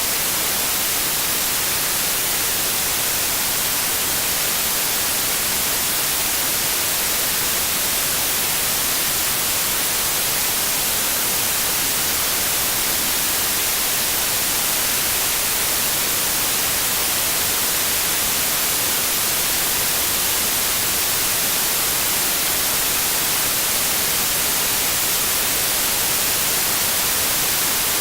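Steady, unchanging white noise: an even hiss, strongest in the high frequencies.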